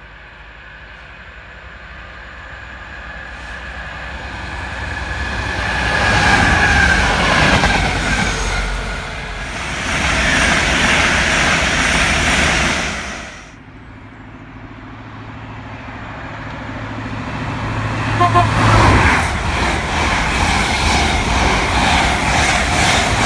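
Express passenger trains passing through at speed. The first builds to a loud rush of wheel and air noise and cuts off sharply about two-thirds of the way in. A second train then approaches and rushes past close by, with a brief horn toot shortly before the end.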